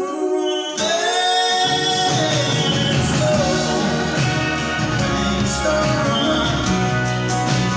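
Live band music with singing: after a quiet moment the full band comes in loudly about a second in, and bass and drums fill out the sound shortly after.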